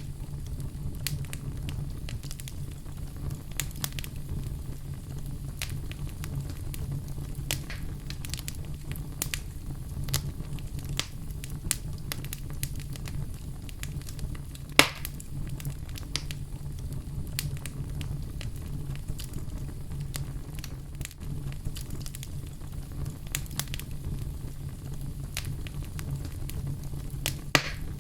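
Wood fire burning in a fireplace: a steady low rumble of flame with scattered sharp crackles and pops, one loud pop about halfway through.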